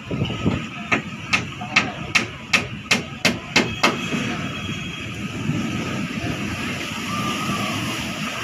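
A quick series of about nine sharp knocks, two or three a second, stops about four seconds in, leaving a steady rushing background noise.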